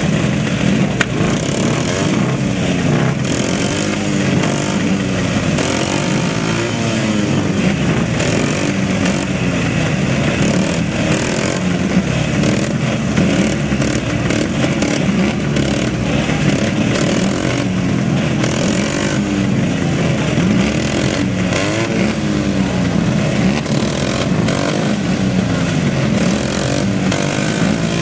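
Many motocross sidecar outfit engines running together at the start line. The riders blip their throttles, so engine notes keep rising and falling over each other throughout.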